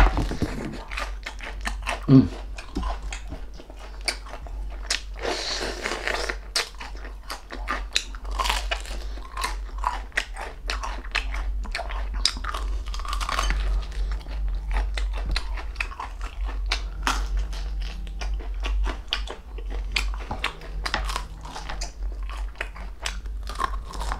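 Crispy pork knuckle (crispy pata) being bitten and chewed: many sharp crunches of the fried skin and chewing, with a steady low hum underneath.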